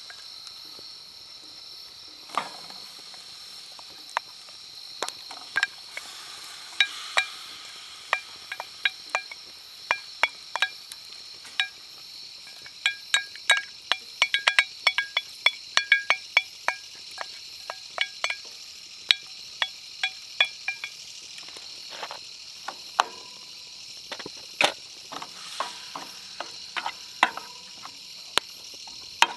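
A metal utensil clinking and scraping against metal cookware many times over, as in stirring, with short ringing clinks that come thickest in the middle. Insects chirr steadily at a high pitch underneath.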